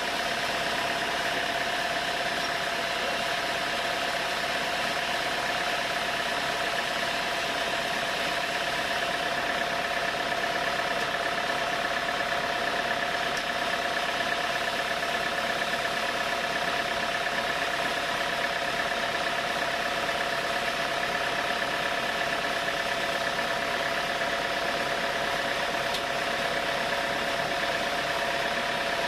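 Sawmill machinery running steadily, an even mechanical drone that does not change in pitch or loudness.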